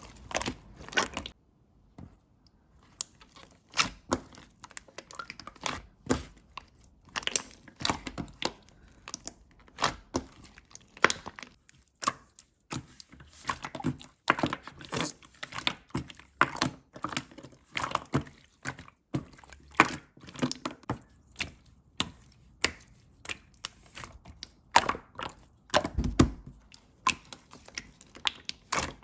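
Slime being squished and pressed by hand, giving irregular crackles, clicks and pops several times a second, with a brief pause about two seconds in.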